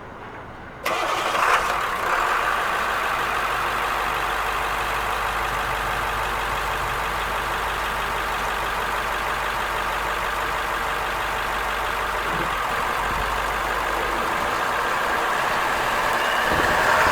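School bus diesel engine running steadily, starting abruptly about a second in.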